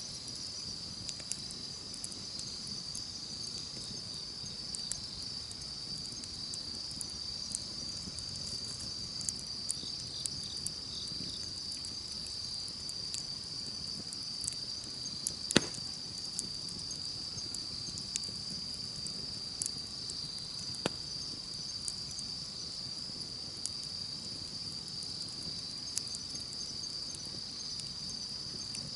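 Campfire wood crackling with scattered sharp pops, one much louder crack about halfway through, over a steady high-pitched chorus of insects.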